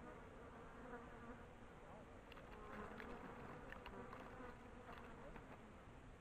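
A fly buzzing faintly close to the microphone, its pitch wavering, with a few soft clicks in the middle.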